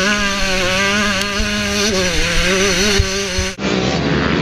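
Motocross bike engine heard on board, running hard, its pitch rising and falling with the throttle. About three and a half seconds in the sound changes abruptly to a duller engine note that revs up.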